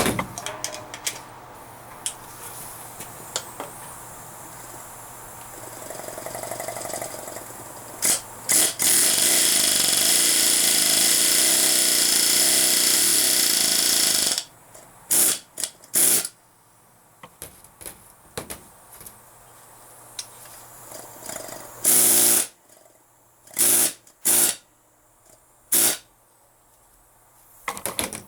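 Pneumatic hammering power tool driving a new U-joint's bearing cap into the axle yoke: one long, loud run of about six seconds, then several short bursts.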